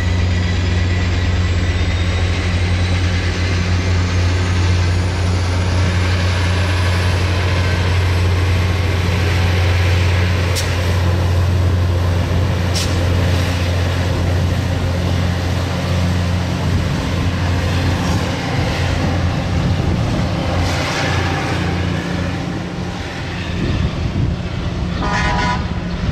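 A passenger train running past with a steady low drone and rail noise, the drone easing off after about twenty seconds. There are two sharp clicks in the middle, and a brief tonal sound near the end.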